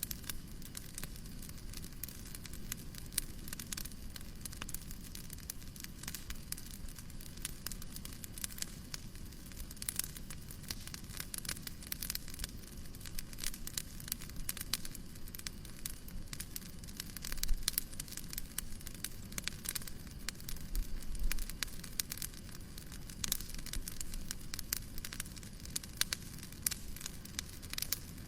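Fireplace crackling: a dense, irregular run of small pops and snaps over a steady soft hiss, with a few louder clusters of pops partway through.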